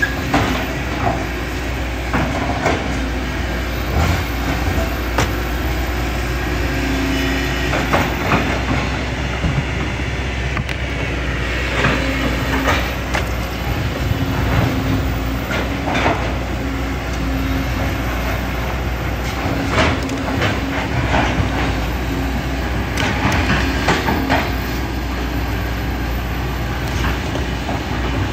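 Kobelco SK200 hydraulic excavator's diesel engine running steadily under load, with a low hum that comes and goes and irregular knocks and scrapes of the bucket in rocks, gravel and sand.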